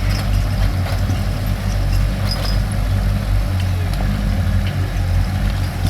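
Mini excavator's engine running steadily with a low, even hum while it is being operated.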